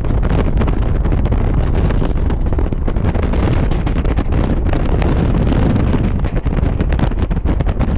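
Indian Railways DC EMU electric multiple-unit train running at speed, its steady rumble overlaid by wind buffeting the microphone. Many small clicks come from the wheels and track.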